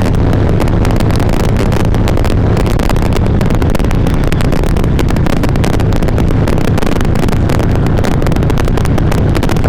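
Harley-Davidson V-twin motorcycle running at road speed, with wind rushing over a helmet chin-mounted mic. The low engine rumble is steady, and the recording is crackly and distorted.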